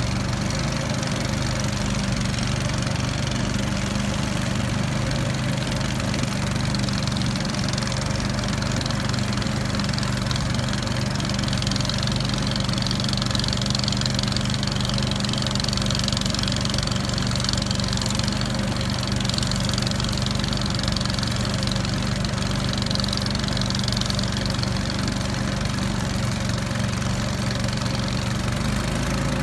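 Small outboard motor of a river raft running steadily, with an even hiss over it.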